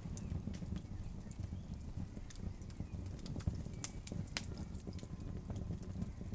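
Wood fire burning in an outdoor fireplace: a steady low rumble of flames with scattered sharp crackles and pops from the logs, the loudest snap about halfway through.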